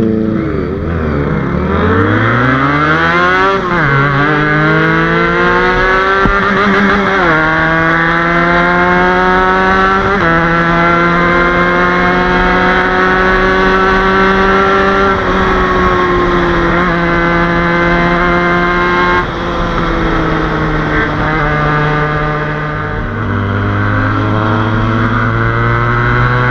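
Motorcycle engine pulling away and accelerating through the gears. Its pitch climbs and drops sharply at each upshift, about three times in the first ten seconds, then it runs at a steady cruise.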